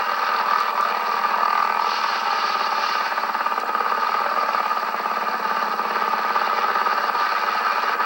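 Hughes 500C helicopter in flight, its turbine engine and rotor running steadily, thin-sounding with the low end cut off.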